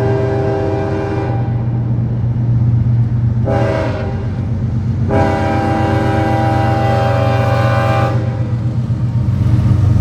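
Diesel freight locomotive's air horn blowing as the train passes: a blast that ends about a second in, a short toot near four seconds, and a long blast from about five to eight seconds, over the steady low rumble of the locomotive and its train.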